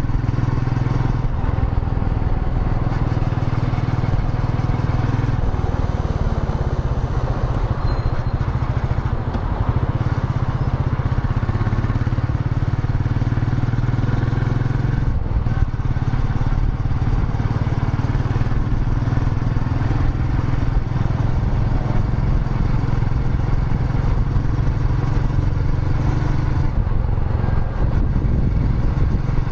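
Royal Enfield Meteor 350's 349 cc single-cylinder engine running steadily while riding, its note shifting slightly in pitch a few times as the speed changes.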